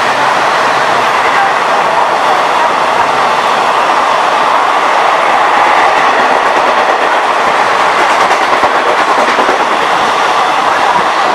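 Loud, steady rush of an express train's coaches passing at speed alongside a platform, wheels running over the rail joints.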